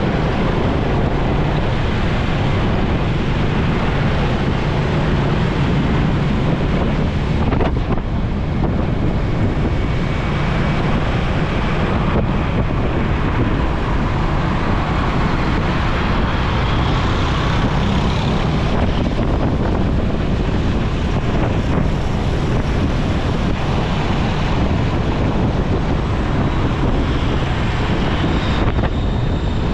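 Steady wind noise on the microphone of a moving motorcycle, over the hum of its engine and road noise.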